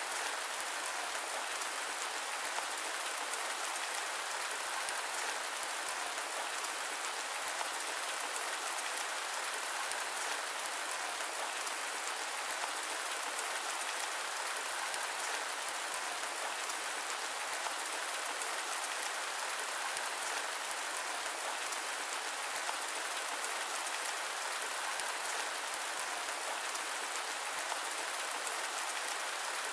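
Steady rain, an even hiss that does not change, with no thunder and no separate drops standing out.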